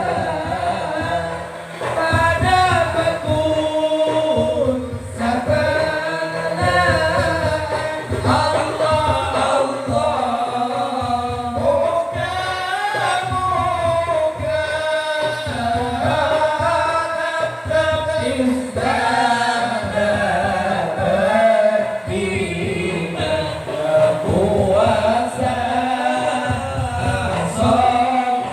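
Sholawat, an Islamic devotional song in praise of the Prophet, sung in Madurese style by voices with a choir-like sound, over a steady low beat.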